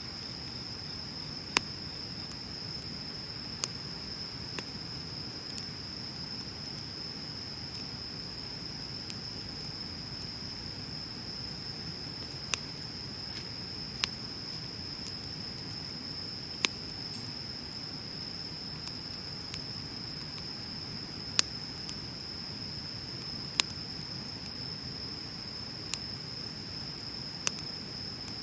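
Wood bonfire burning with a low, steady rush and about a dozen sharp, irregular crackles and pops from the burning wood, the loudest about two-thirds of the way through. A steady high-pitched tone runs underneath.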